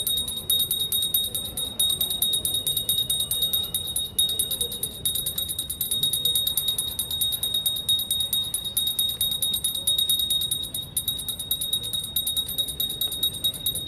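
A small brass hand bell (puja ghanti) rung rapidly and without a break, its many fast strikes blending into one continuous jangling ring.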